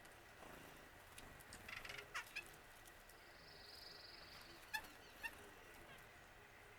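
Faint wild birds calling: a quick run of short notes about two seconds in, a high buzzy trill a second later, then two sharp calls half a second apart.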